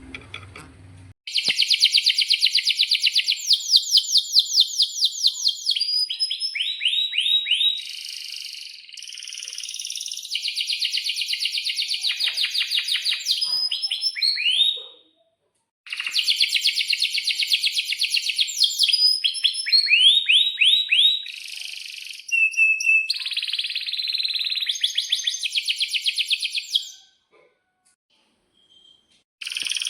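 Domestic canary singing loud, long trilling phrases of rapid repeated notes, starting about a second in. The song breaks off briefly about halfway and again near the end.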